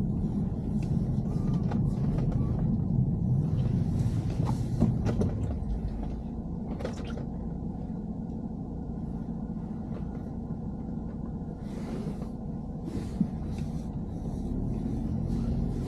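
Steady low rumble of a BMW E90 heard from inside the cabin while it drives, with scattered light clicks and rattles over it.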